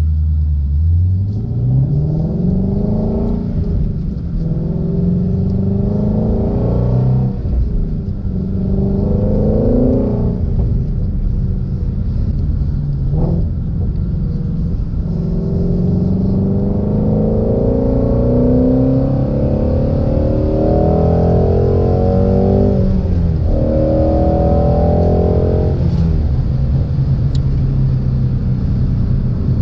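2016 Ford Shelby GT350's 5.2-litre flat-plane-crank V8 pulling hard through the gears. Its pitch climbs, drops sharply at each upshift and climbs again, several times, then settles to a steadier drone near the end.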